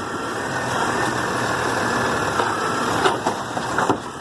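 Garbage truck engine running steadily, with two sharp knocks about three and four seconds in.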